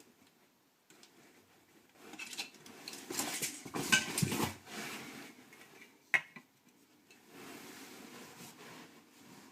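Hard objects clattering and scraping together for a few seconds, with one sharp click about six seconds in, then a short steady rushing noise near the end.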